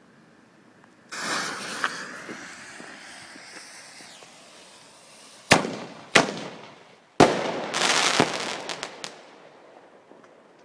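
Fireworks going off: a sudden rushing hiss about a second in as they launch, then two sharp bangs about half a second apart, and a third, loudest bang followed by a spray of crackling and a few last cracks.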